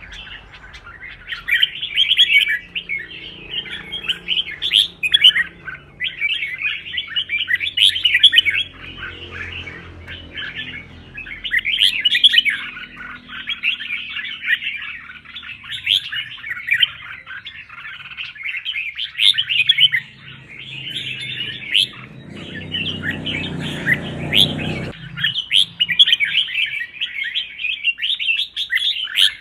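Red-whiskered bulbuls singing: rapid, chattering phrases of chirps and whistles that follow one another almost without a break, with only short pauses.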